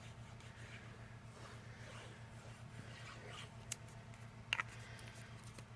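Faint handling of cardstock and paper on a craft table, soft sliding with two light taps about three-quarters of the way through, over a low steady hum.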